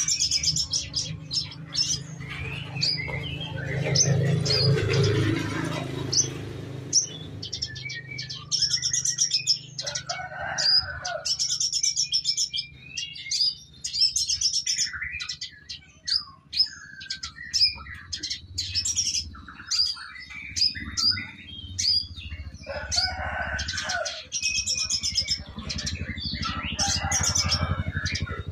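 Domestic canary singing, a long run of rapid chirps and trills with short breaks. A low drone runs underneath, swelling and falling in pitch about four to six seconds in.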